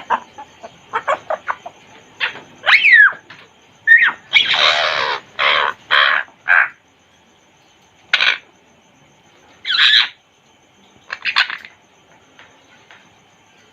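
African grey parrot calling in a string of short clicks, a sweeping whistle and harsh squawks, with quiet gaps between the calls.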